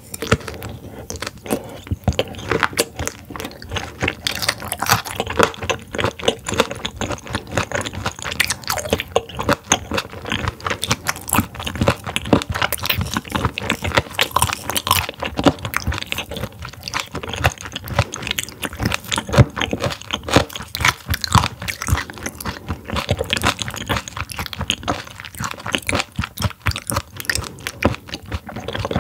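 Close-miked chewing of partly frozen raw silver pomfret (butterfish) sashimi: a steady run of quick crunches and wet mouth clicks as the icy slices are bitten through.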